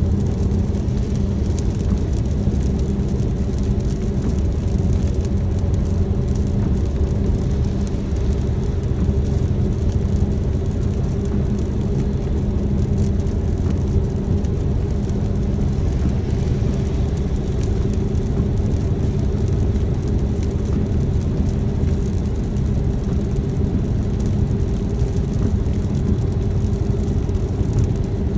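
Steady low rumble of a car being driven: road and engine noise with a constant hum, and faint scattered ticks of rain on the car.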